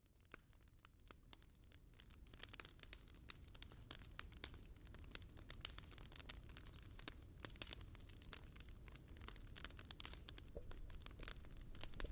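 Wood fire crackling, with many small sharp pops over a low rumble. It is faint at first and fades in, growing slowly louder.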